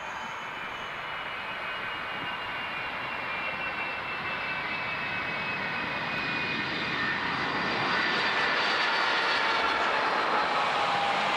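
Boeing 757's twin jet engines whining as it comes in to land, a steady engine noise that grows louder, stepping up about eight seconds in. Several high whine tones in it slowly fall in pitch.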